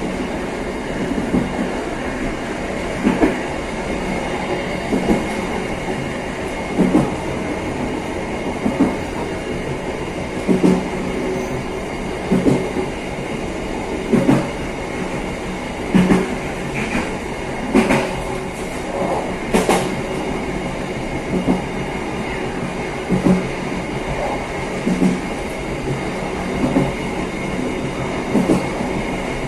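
Passenger train running along the track, heard from the rear of the last carriage: a steady rumble with a clack of the wheels over rail joints about every two seconds.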